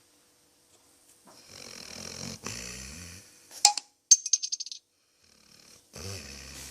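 Dog snoring: a long, rattly snore of about two seconds, then a sharp click and a quick rattle of clicks, then the next snore starting near the end.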